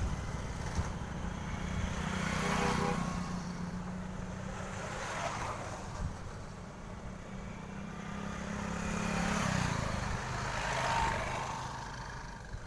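Heavy truck engines running, with several trucks passing one after another in rushing swells about every three seconds. A steady low engine note drops lower about nine and a half seconds in.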